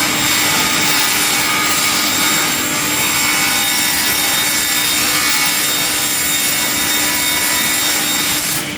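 Industrial wood-processing machine cutting through wood: a steady, loud grinding, rasping noise over a constant hum, which cuts off abruptly near the end.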